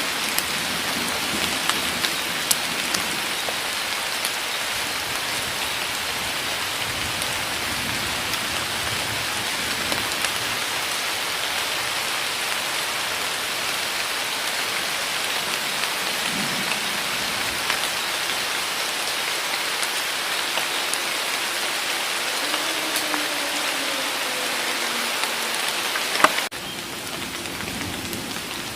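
Heavy rain pouring steadily in a forest, with individual drops tapping sharply. Near the end a sharp click comes, and the rain drops to a softer level.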